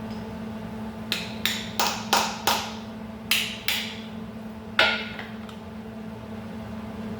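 Hammer striking metal, about eight sharp knocks with a short ring, in quick succession with a pause before the last and loudest one. A steady low hum runs underneath.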